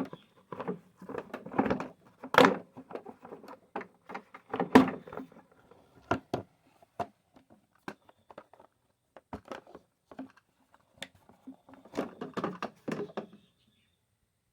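Plastic cover of a Honda HRX lawn mower being unclipped and pulled off: a string of irregular plastic clicks, knocks and rattles, the sharpest about two and a half and five seconds in and another cluster near the end.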